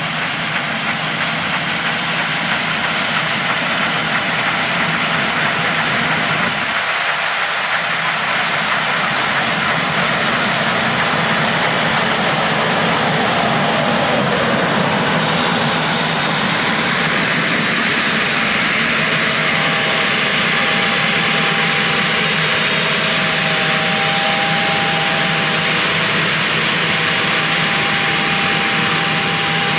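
John Deere S670 combine harvester running steadily, with a loud rushing hiss. About halfway through a whine glides down in pitch, then two steady whining tones hold to the end.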